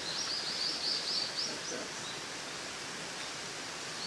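A small songbird sings a rapid series of high, repeated notes, about six a second, which stops about a second and a half in. Under it runs a steady outdoor hiss.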